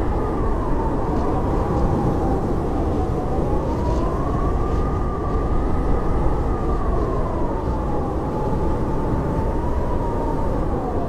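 Howling blizzard wind: a steady rush of low noise with a whistling howl that slowly rises and falls in pitch.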